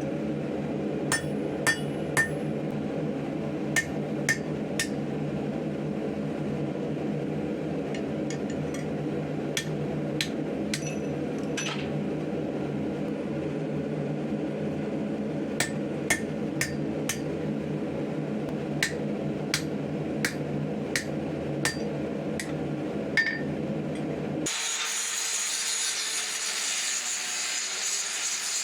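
Hammer blows on 5160 spring steel at the anvil while forging a knife blade: sharp, ringing strikes coming singly and in small clusters over a steady low rumble. About 24 seconds in the sound cuts to a steady high hiss.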